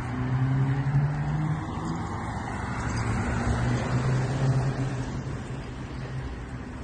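BMW E36 M3 straight-six engine running through a muffler-delete exhaust, its note swelling and easing off twice as the car is driven.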